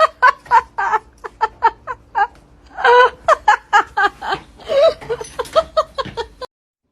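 A person laughing hard in quick repeated bursts, which stop abruptly about six and a half seconds in.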